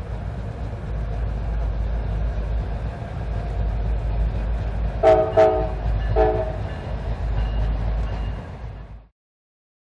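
Diesel locomotive running with a steady low rumble, sounding short blasts on its air horn about five seconds in and again a second later. The sound cuts off suddenly near the end.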